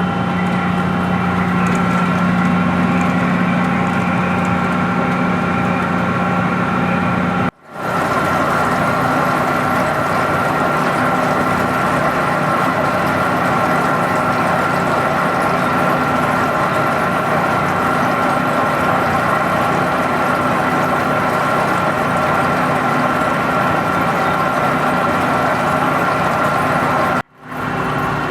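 Metal-turning lathe running steadily while turning a large pot-bearing part, a constant machine hum with a few held tones. The sound drops out sharply for a moment twice, about a third of the way in and near the end.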